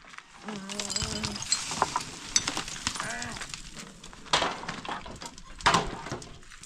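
Demolition debris being broken up: several sharp knocks and clinks, the loudest a little past four seconds and near six seconds. A short pitched call is heard about half a second in and another near three seconds.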